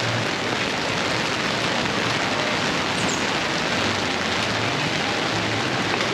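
Steady downpour of rain from a tropical storm, falling and splashing on surfaces.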